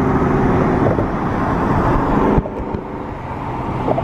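Chevrolet Camaro ZL1's supercharged V8 and road noise heard from inside the moving car, running steadily, then easing off abruptly about two and a half seconds in before picking back up.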